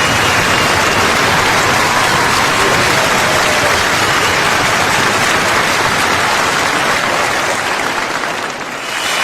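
A large crowd applauding: dense, steady clapping that dips briefly near the end before another round of applause starts.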